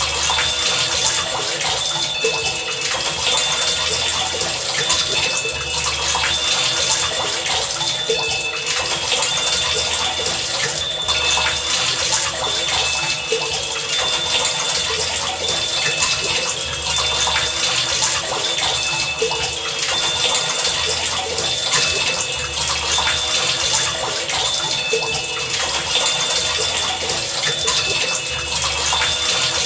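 Steady heavy rain, a dense even hiss. Under it, a low pulse recurs about every two seconds, and short high tones come and go in a repeating pattern.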